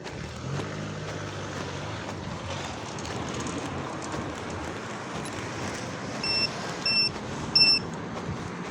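Traffic noise with a motor vehicle engine running past, its low hum strongest in the first couple of seconds. Near the end, three short, high electronic beeps sound about 0.6 s apart.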